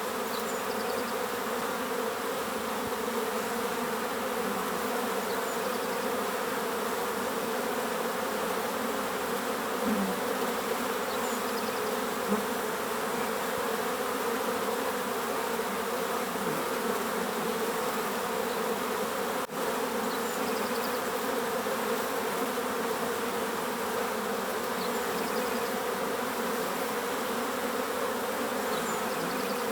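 Bees buzzing as a steady, continuous swarm hum, with faint bird chirps now and then and a brief drop in level about two-thirds of the way through.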